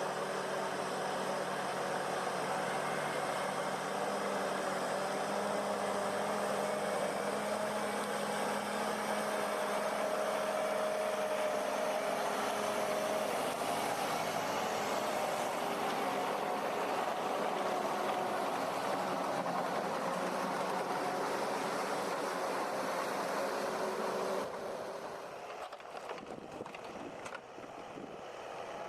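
Timber forwarder's diesel engine running steadily as the machine drives through mud. Near the end the sound cuts abruptly to a quieter passage with scattered clicks and creaks.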